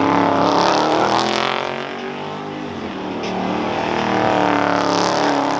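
Car engine revving hard, its pitch sinking over the first couple of seconds and then climbing again, as a car is driven in a slide.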